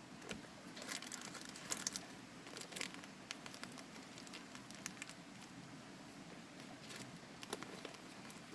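Irregular light crackling and rustling: scattered sharp clicks, thickest about a second in and again near the end, over a faint steady background hiss.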